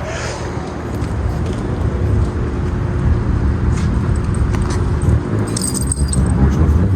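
Wind buffeting the microphone in a steady, uneven low rumble, with car engines running at the meet underneath. A brief high metallic jingle comes about five and a half seconds in.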